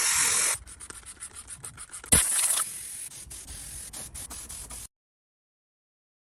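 Abrasive rubbing and scraping on a part being restored, with rapid strokes. Two short, loud hissing bursts come at the start and about two seconds in, and the sound cuts off abruptly about five seconds in.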